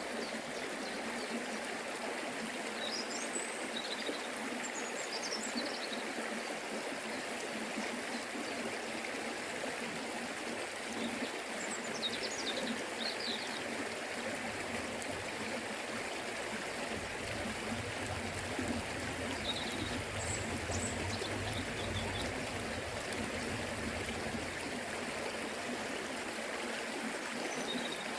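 Forest river flowing steadily: an even, unbroken rush of water, with a few faint short high chirps here and there.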